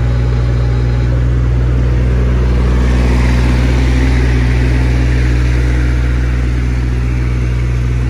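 JCB 8018 mini excavator's diesel engine running steadily under hydraulic load while the machine travels. A swell of hydraulic and track noise comes about three to five seconds in. The two-speed travel is now working at normal speed, after a wrongly connected pilot hose and case-drain hose were swapped back.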